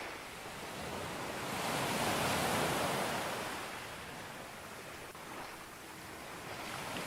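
Sea waves washing onto a beach: one wave swells to a peak about two and a half seconds in, then recedes, with steady surf in between.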